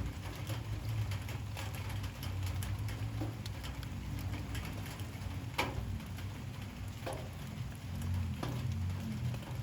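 Light rain falling, with scattered drips ticking and a few louder drops, the clearest about five and a half seconds in, over a steady low hum.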